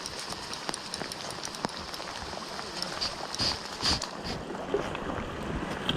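Steady rain and river noise with a scattered patter of raindrops, and two louder short thumps about three and a half and four seconds in.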